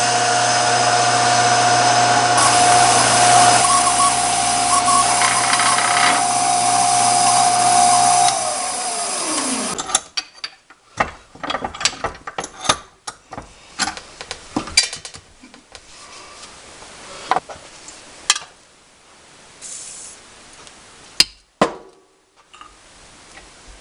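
1950 South Bend drill press running and drilling, a steady motor hum with a high whine, then switched off about eight seconds in and winding down in falling pitch. After that come scattered light clicks and knocks.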